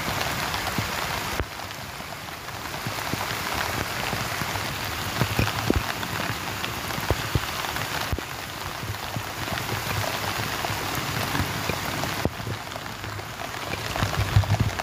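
Steady rain falling, with scattered drops ticking and knocking close by; the rain's level changes abruptly a few times.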